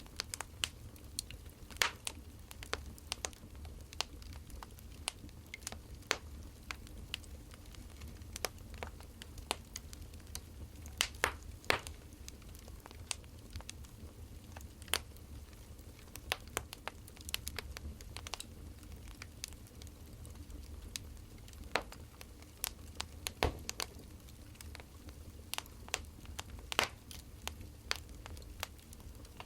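Burning firewood crackling, with irregular sharp pops of varying loudness over a low steady hum.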